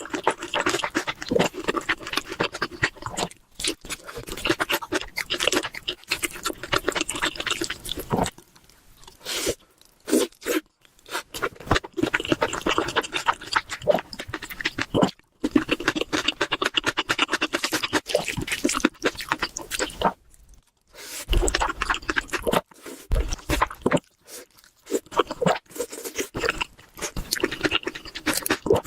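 Close-miked eating sounds: rapid crackly chewing and crunching of food, broken several times by brief silent gaps, with a few low thumps a little past the middle.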